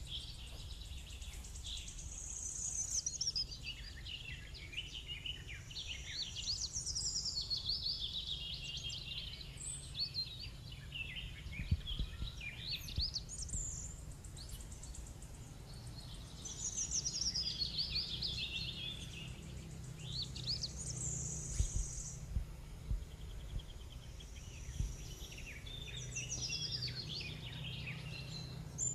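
Birds singing in the trees: short runs of high chirps that fall in pitch, coming every few seconds, over a steady low rumble with a few bumps.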